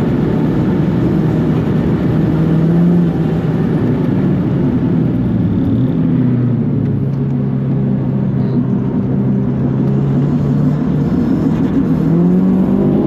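Modified Mitsubishi Colt R's turbocharged four-cylinder engine running under way at mostly steady revs. The pitch drops a little about halfway through, holds steady, then climbs near the end.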